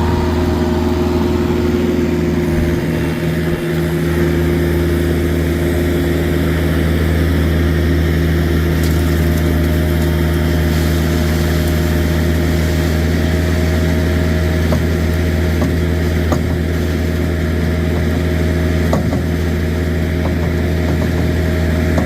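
Truck engine running steadily, a constant low drone, with a few faint clicks in the second half.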